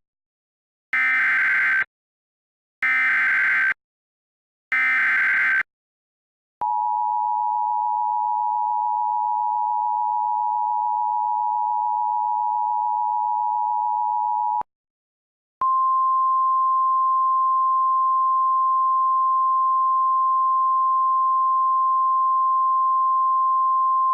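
Emergency Alert System warning signal for a severe thunderstorm warning. It opens with three short buzzing SAME header data bursts about a second apart. Then comes the steady two-tone attention signal for about eight seconds, and after a brief gap the single steady NOAA Weather Radio warning alarm tone.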